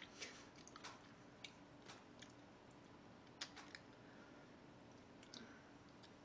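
Near silence with faint, scattered small clicks and ticks, about a dozen, the loudest about three and a half seconds in, over a faint steady hum.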